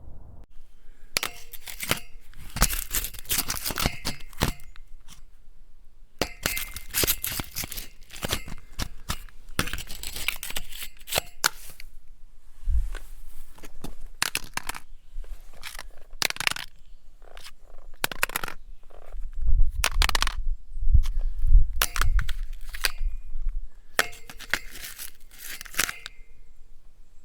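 Bursts of rapid clattering and clinking clicks from small hard objects knocking together, with scattered single ticks between the bursts. A few dull low thumps come in the middle.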